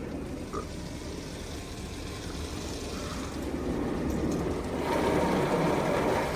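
Steady low rumble with a hiss, heard from inside a car's cabin, growing louder and brighter about five seconds in.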